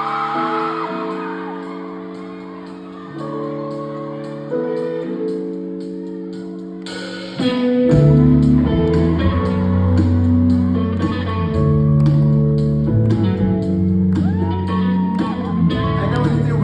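Pop song played live over a concert sound system, recorded from the audience. It opens with held chords, and about seven seconds in the bass and beat come in, much louder.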